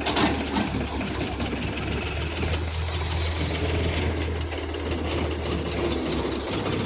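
Diesel engine running steadily with a constant low hum, with a brief clatter about a moment into the sound.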